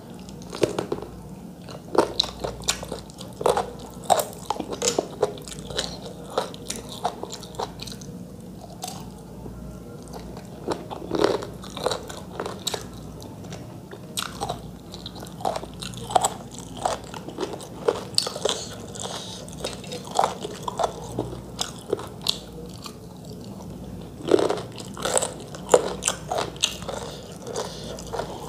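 Close-up chewing and mouth sounds of someone eating rice and chicken curry by hand, a run of irregular wet clicks with a few crunchy bites.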